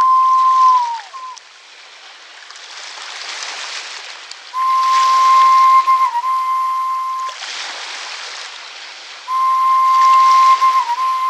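A pure, whistle-like tone held steady at one pitch for one to three seconds at a time, three times, the last two each with a brief dip in pitch near their end, over a rushing, water-like hiss that swells and fades.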